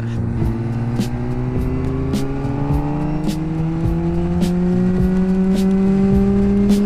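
Honda CBR600RR inline-four with a Yoshimura exhaust accelerating, its engine note climbing slowly and steadily for about six seconds, then dropping sharply near the end.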